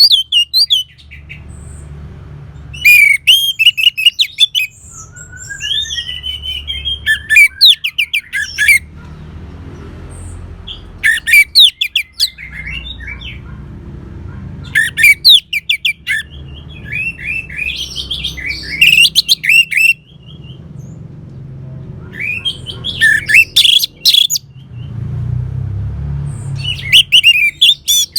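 Orange-headed thrush singing: loud phrases of quick, varied whistled and chattering notes, repeated every three to four seconds, over a steady low background rumble.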